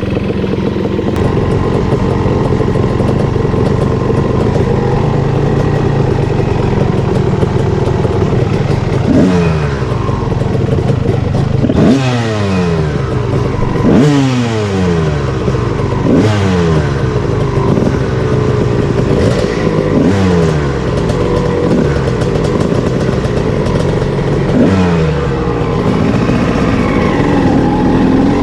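Two-stroke dirt bike engine under way on a trail: it runs steadily for the first third, then gets repeated sharp bursts of throttle about every two seconds, the revs falling away after each.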